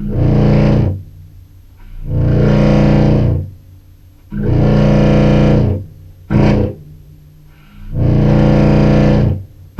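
Contrabass clarinet playing its lowest note, low C, through fuzz pedals in repeated distorted blasts: four long notes of about one to one and a half seconds each, with a short stab just after the third. The parallel synth pedal is not following the note, which the player puts down to it being too low to be picked up.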